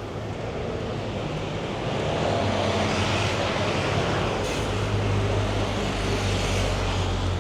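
City road traffic with a heavy vehicle's engine hum close by, swelling about two seconds in and staying loud under the steady traffic noise.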